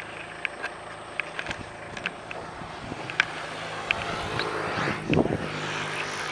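A motor vehicle engine running steadily, with scattered sharp clicks and knocks. The engine noise grows louder from about three and a half seconds in.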